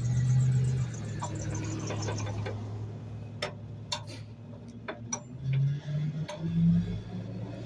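Garbage truck idling with a steady low hum, with a few separate sharp clicks and knocks in the second half.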